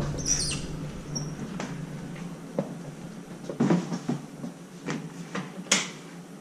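A handful of light knocks and clicks at irregular intervals, roughly one a second, the sharpest one near the end, over faint room tone.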